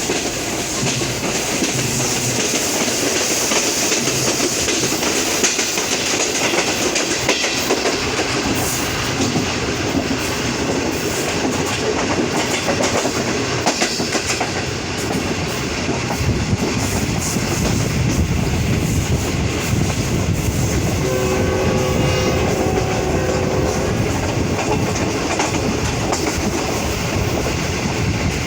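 Green Line Express passenger train running, with a steady rumble and wheels clattering over the rail joints. About three quarters of the way through, a locomotive horn sounds for roughly two seconds.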